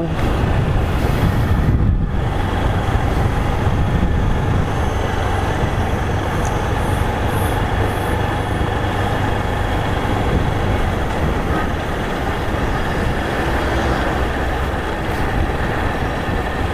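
Motorcycle riding at a steady speed: the engine runs evenly under steady road and wind noise.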